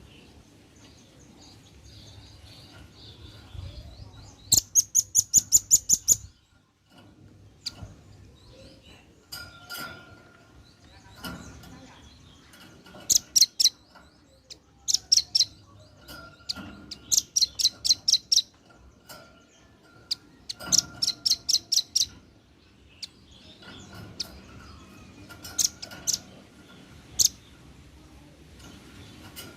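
Velvet-fronted nuthatch (red-billed nuthatch) calling: several loud, rapid runs of sharp, high notes, each run about a second or so long, repeated throughout with short pauses between them.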